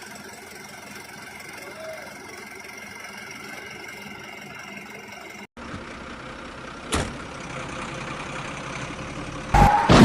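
A steady engine-like hum with a few held tones. It cuts off suddenly about five and a half seconds in and gives way to a different steady noise, with a sharp click about a second later and a loud burst of noise near the end.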